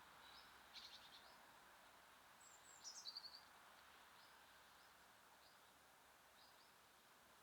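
Small songbirds calling faintly at a feeder: short high chirps scattered throughout, a quick rattling series about a second in and a louder run of rapid notes near three seconds, over a steady soft outdoor hiss.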